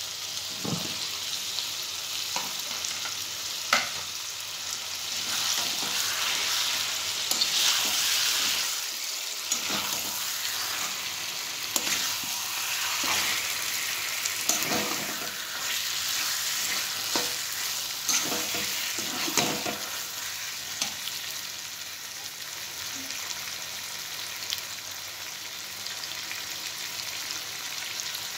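Chicken and potato chunks frying in masala in a kadai: a steady sizzle, louder for a few seconds in the middle, with a slotted metal spatula scraping and knocking against the pan as the curry is stirred.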